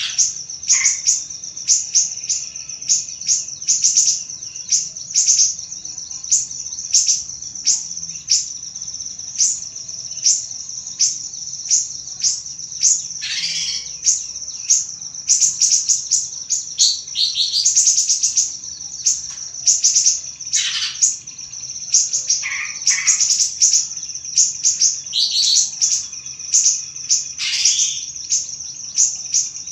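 Small sirih-sirih bird song: a fast, continuous stream of high, thin chirps, about two a second, with louder downward-sliding calls now and then, especially about halfway through and near the end.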